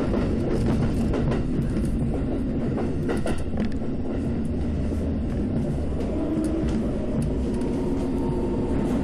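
Keikyu commuter train heard from inside the passenger car while running: a steady rumble of wheels and running gear, with scattered clicks from the wheels over rail joints. A faint steady whine joins in over the last few seconds.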